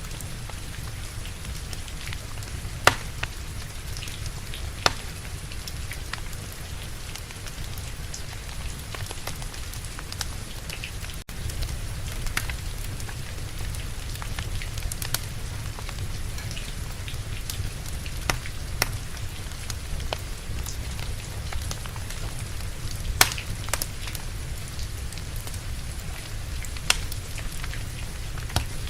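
Steady rain with a low rumble underneath, mixed with a crackling wood fire whose sharp pops stand out a handful of times.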